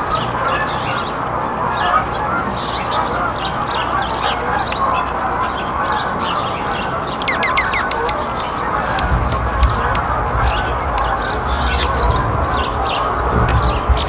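Small wild birds chirping and calling over a dense, steady background of bird chatter, with a quick run of falling notes about seven seconds in. A low rumble joins from about nine seconds in.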